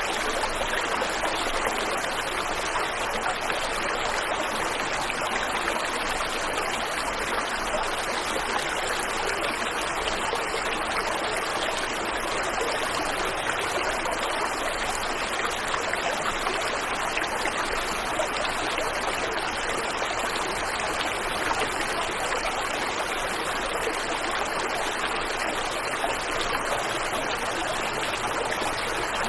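Waterfall and river water rushing and splashing in a steady, even stream.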